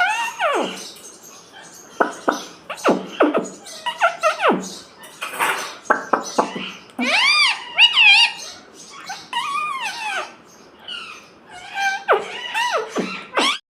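Pet ringneck parrot calling: a run of short chirps and squawks, many arching up and falling in pitch, about a dozen spread through.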